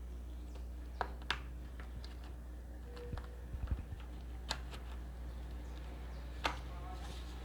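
Plastic parts of a steam iron's housing being handled and pried loose by hand: a few separate sharp clicks and taps, with a short run of soft low knocks near the middle, over a steady low hum.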